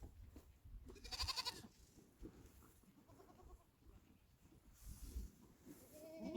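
Goats bleating: one quavering bleat about a second in and a fainter one around three seconds, over a low rumble.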